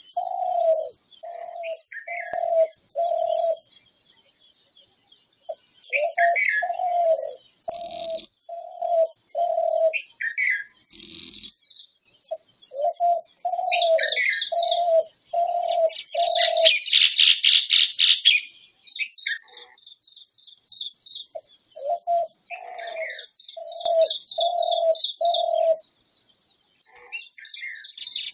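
Birds calling: runs of four or five short, evenly spaced low notes repeated with pauses between, mixed with higher chirps and fast twittering trills that are loudest about two-thirds of the way through.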